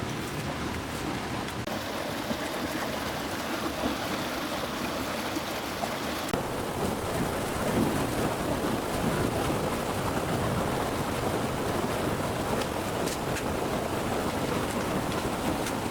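Steady rushing water noise, growing slightly louder and fuller about six seconds in.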